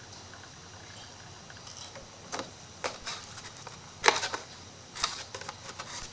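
Irregular taps, scrapes and rustles of hands working paper and tools on a small craft piece. They start about two seconds in, the loudest comes about four seconds in.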